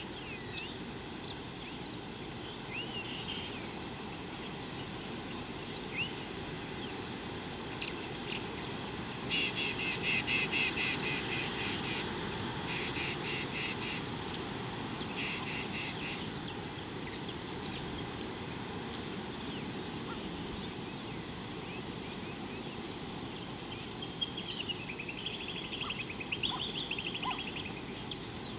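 Wild birds calling over a steady low outdoor background: scattered short chirps, then about nine seconds in a loud, rapid chattering series of calls that stops and restarts twice over several seconds, and another run of quick trilled calls near the end.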